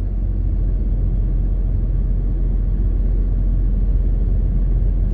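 Steady low rumble inside the cab of a MAN TGX 18.520 truck on the move, from its straight-six diesel engine and the road.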